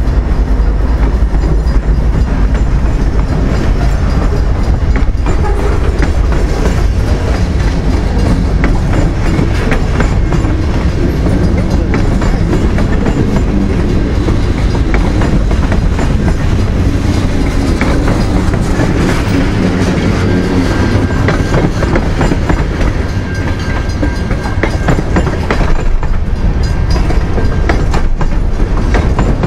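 Freight train of boxcars, tank cars and autorack cars rolling past close by as it slows: a loud, steady rumble with clickety-clack of wheels over the rail joints. At the start the trailing GE C44-9W diesel locomotive is passing.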